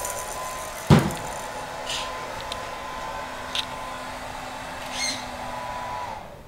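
Hair dryer running steadily, then switched off near the end. A sharp knock about a second in and a few lighter clicks sound over it.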